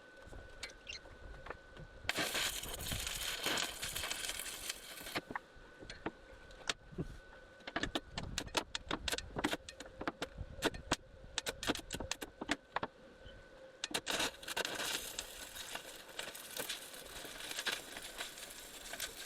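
Electric arc welding on the steel hull around an old hull fitting being sealed up. The arc crackles in two runs of a few seconds, about two seconds in and again near the end, with irregular sharp crackles and ticks between them.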